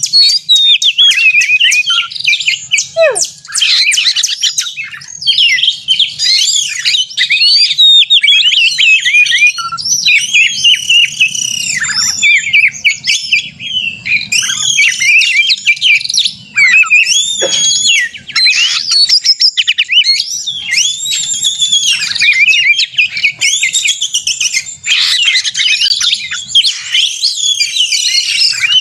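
Oriental magpie-robin (kacer) singing in full, aggressive territorial fighting song: a dense, unbroken stream of quick, varied high whistles and chattering notes, with a run of rapid clicking notes near the start.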